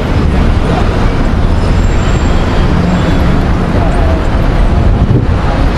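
Loud, steady city street traffic noise with a heavy low rumble of vehicles and faint voices in the background.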